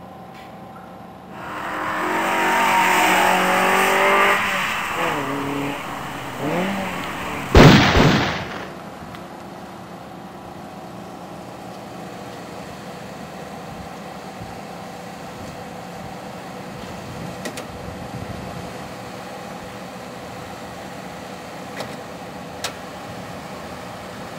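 A motor vehicle revving and accelerating, its pitch sliding up and down, then a single loud bang about eight seconds in. A steady low hum follows.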